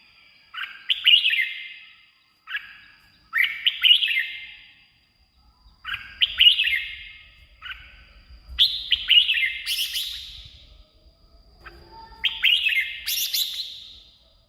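Red-whiskered bulbul singing: loud, bright warbling phrases of a second or two each, repeated about every two seconds with short pauses between. A faint steady high tone runs underneath.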